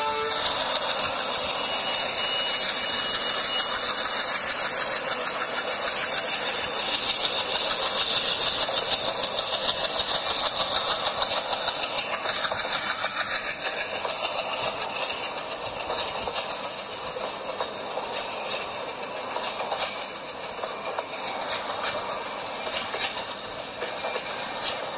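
Diesel-hauled passenger train passing close by, behind WDM-3A diesel locomotives: engine noise and the steady rattle of the coaches on the rails. It is loudest about a third of the way in, then somewhat quieter, with sharp wheel clicks over the rail joints in the second half.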